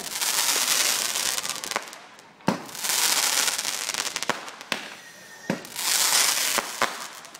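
Fireworks going off: several sharp bangs, each stretch of loud crackling hiss lasting one to two seconds, in three bouts.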